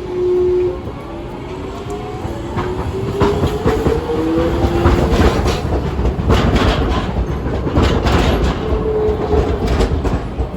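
Hiroshima Electric Railway streetcar pulling away, its traction motor whine rising in pitch as it gathers speed. From about two and a half seconds in, the wheels clack repeatedly over rail joints and points.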